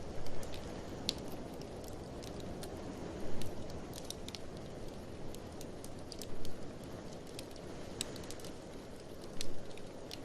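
Wood fire crackling in a fireplace, with scattered sharp pops and a few louder bumps about three seconds apart, over a steady low rush of blizzard wind.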